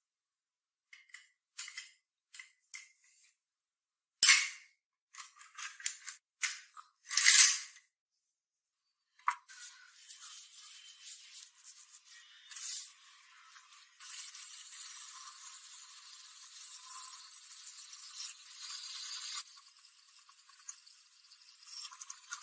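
Workshop handwork noises, thin and high-pitched with no low end: scattered clicks and scrapes in the first half, then a steady rasping hiss for about five seconds.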